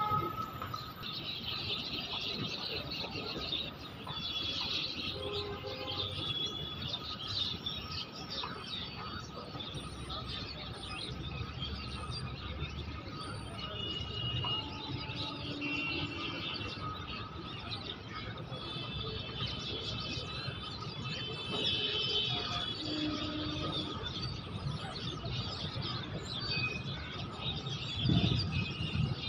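Freight train wagons rolling past on the track, a steady low rumble of wheels on rail that swells near the end, with birds chirping over it.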